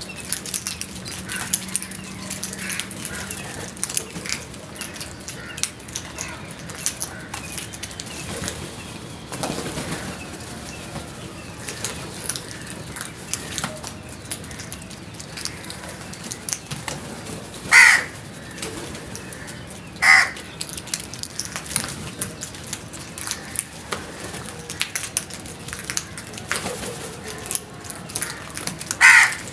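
Crows cawing: three loud, short caws, about 18 s in, two seconds later, and again near the end, with frequent soft taps and rustles between them.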